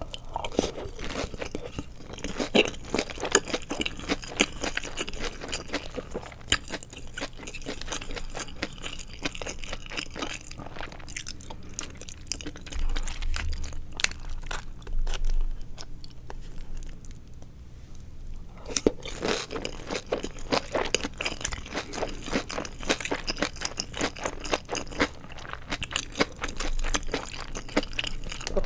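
Close-miked crunching and chewing of deep-fried nori seaweed rolls filled with glass noodles: crisp, crackly chewing, softer and quieter for several seconds in the middle, then crunchy again.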